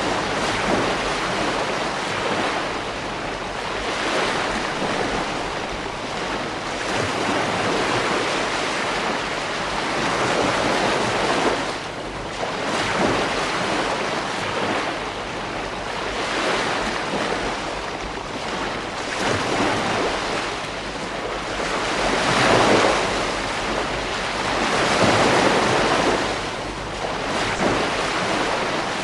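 Ocean waves breaking and washing up the shore, one swell every few seconds in a steady surf, with some wind on the microphone.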